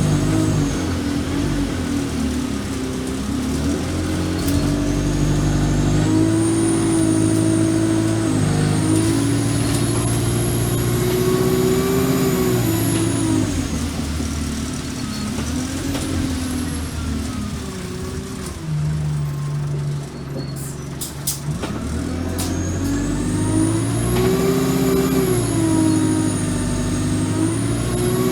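Alexander Dennis Enviro200 bus engine accelerating and easing off in repeated cycles, its pitch rising and falling, with a high whine that follows the engine speed. About twenty seconds in it settles low with a few sharp clicks, then pulls away and climbs again.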